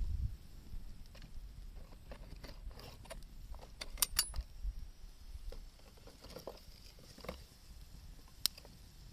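Wood campfire crackling: scattered sharp pops and clicks, with two louder pops about four seconds in, over a low rumble.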